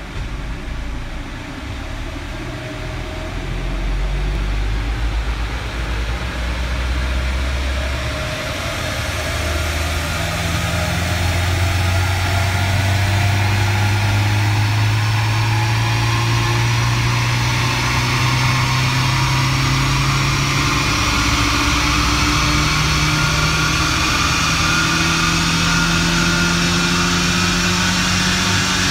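Turbocharged 2.0-litre four-cylinder engine of a tuned Saab 9-5, with a GT17 turbo, running under load on a dyno, heard from inside the cabin. It grows louder over the first few seconds and then holds steady. A high whine rises slowly in pitch throughout.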